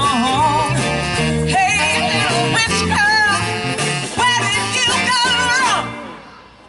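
Live cover band playing: steady bass notes under a wavering, bending lead melody. The music fades out over the last second.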